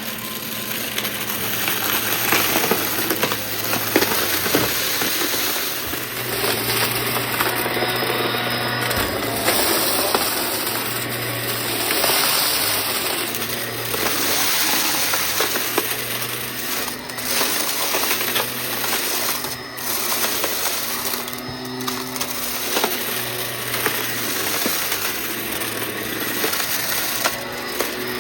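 Vacuum cleaner running with a steady rushing hiss and a low hum that comes and goes every few seconds. Small clicks and rattles of debris are being sucked up through it.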